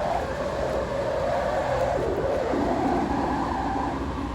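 Liferaft inflating from its gas cylinder after its painter line is pulled: a steady rushing of gas.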